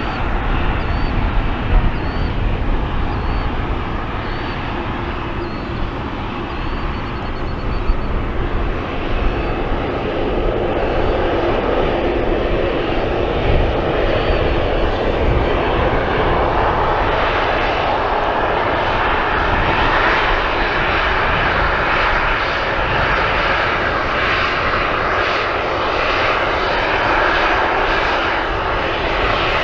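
Boeing 737-700 jet airliner's CFM56-7B turbofan engines running in a continuous roar that grows louder and fuller from about ten seconds in as the jet powers up for its takeoff.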